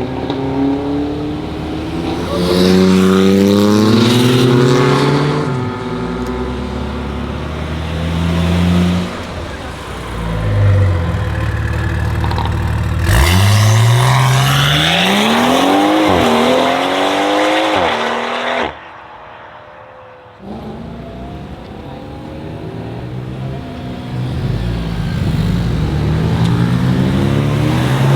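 Performance car engines revving and accelerating past one after another, the exhaust note climbing in pitch through the gears and dropping between shifts.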